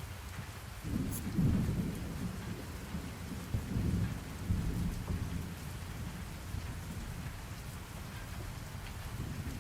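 Steady rain with a low rumble of thunder that swells about a second in and dies away over several seconds.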